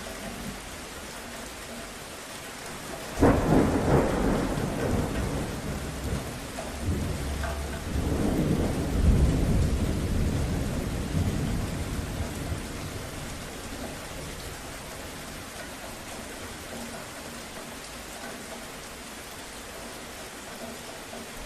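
Steady rain with a thunderclap that breaks suddenly about three seconds in, swells again a few seconds later, then rumbles away over several seconds back into the rain.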